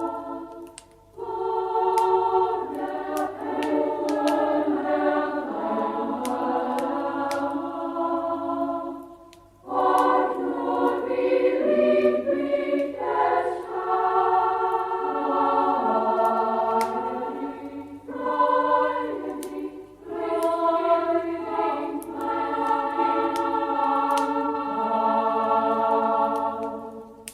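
A choir singing a Christmas song in long held phrases, with short breaks between them about a second in, near ten seconds and near twenty. A few faint sharp clicks sound over the singing.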